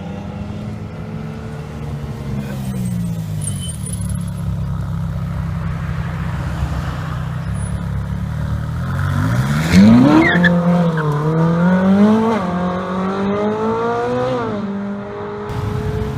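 Supercar engine running at a steady low note, then accelerating hard about nine seconds in: the pitch climbs sharply and then rises and falls through several upshifts before levelling off near the end.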